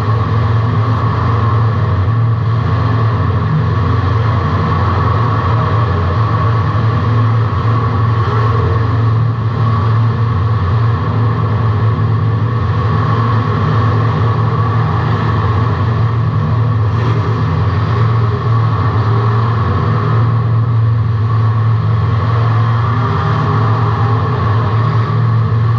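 A competition car's engine runs loud and steady under power for the whole stretch, heard from inside the car's cabin.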